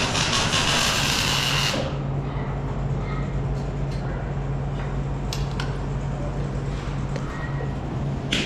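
A power tool runs with a high hiss for about two seconds and stops. A steady low hum and a few light clicks go on after it.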